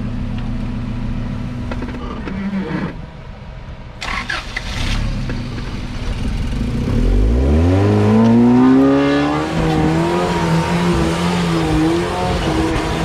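Off-road 4x4's engine running at low revs, then from about seven seconds in revving up in one smooth rise and holding at high revs, its pitch wavering.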